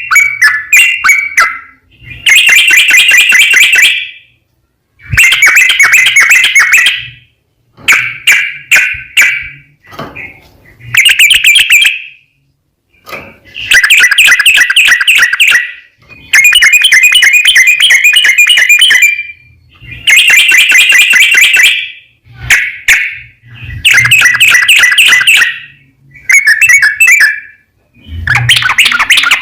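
Yellow-vented bulbul (trucukan) singing loudly. It gives a run of fast, chattering, bubbling phrases, each one to three seconds long, with short pauses between them.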